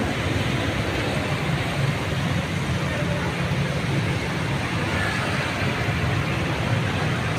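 A road vehicle's engine rumbles steadily under the even hiss of falling rain.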